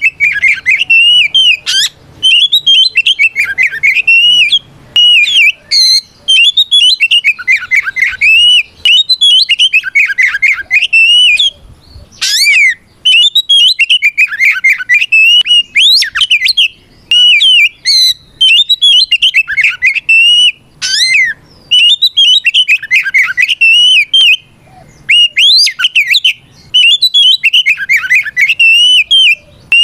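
Oriental magpie-robin (kacer) singing a loud, fast, varied song of sliding whistled notes in long runs broken by brief pauses. This is the full, open 'ngeplong' challenge song, a male calling out rivals, which keepers play to provoke other magpie-robins to answer.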